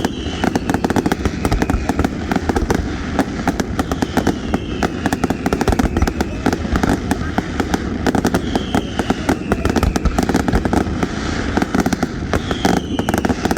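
Fireworks display with dense, rapid crackling and popping over a low rumble. Faint falling whistles come about every four seconds.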